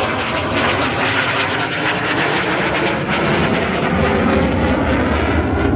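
Military aircraft flying past low during a flying display: a loud engine roar that builds gradually, with a deeper rumble swelling near the end.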